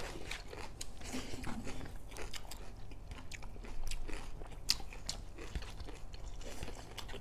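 Chewing and crunching while eating a meal of rice and pork curry, heard as many short, irregular bite and mouth clicks.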